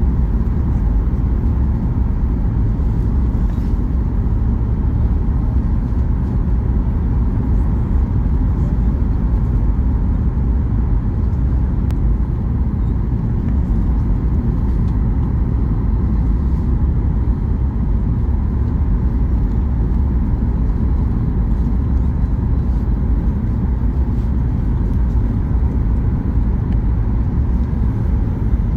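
Steady low rumble inside a Boeing 737 cabin as the airliner rolls along the ground after landing, with engine and wheel noise blended into one even drone.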